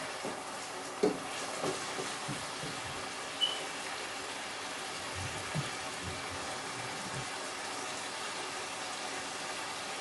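Onions, tomatoes and Scotch bonnet pepper frying in a stainless steel skillet: a steady sizzle, with a few light knocks in the first seconds.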